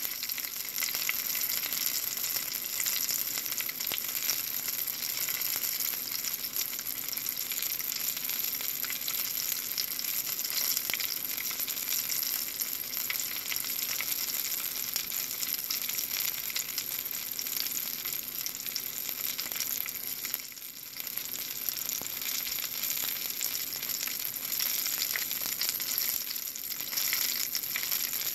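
Flour-coated chili cheese burger balls sizzling steadily in shallow oil in a nonstick frying pan, with a constant fine crackle. The sizzle dips for a moment about twenty seconds in.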